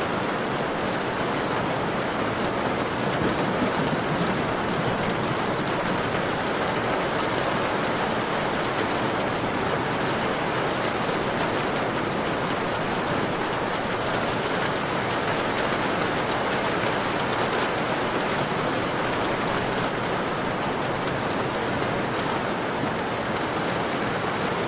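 Steady rain falling, with the patter of drops striking a window.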